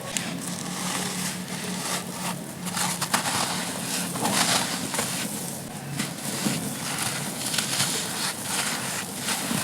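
Dry, grainy molded charcoal shapes crumbling and being crushed: a continuous irregular crackle and crunch of breaking pieces, with a few sharper snaps.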